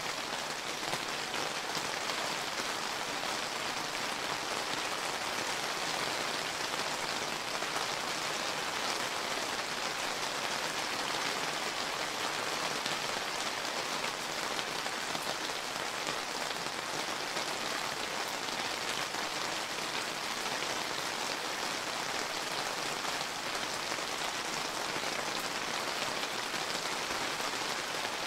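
Steady summer rain falling and pattering on surfaces, an even hiss of many fine drops.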